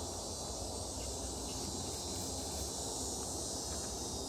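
Steady insect chorus, a continuous high chirring of crickets, with a faint low rumble underneath.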